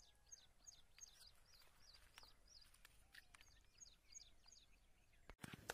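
Faint bird calls: a steady series of short, high notes, each sliding downward, about three a second, over quiet outdoor ambience. Near the end, brief rustling and handling noise.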